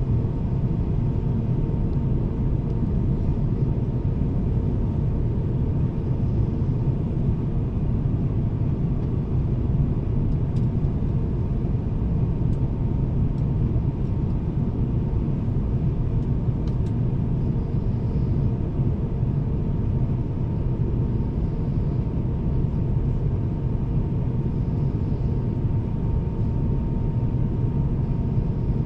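Steady in-flight cabin noise of an Airbus A350-1000 heard from a window seat: an even low rumble of airflow and its Rolls-Royce Trent XWB engines, with a faint steady hum over it.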